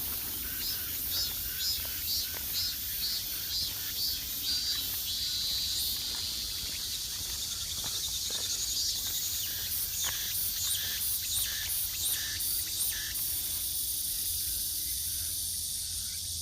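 Cicadas singing in summer woodland. A high pulsing call repeats about twice a second for the first few seconds, then runs on as a steady high buzz, and a faster, higher pulsing chorus joins about ten seconds in, over a low rumble.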